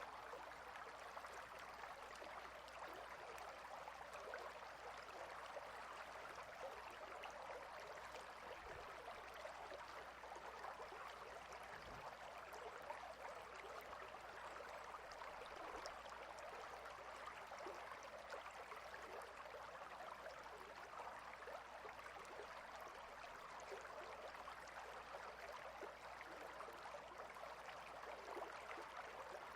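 River water flowing over and between rocks: a steady, unbroken rush at low level.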